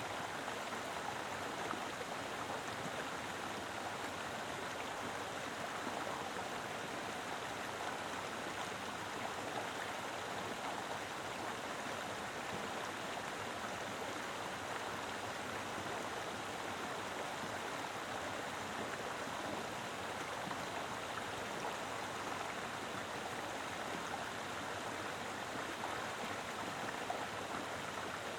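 Mountain river flowing strongly over rocks: a steady, full rush of water.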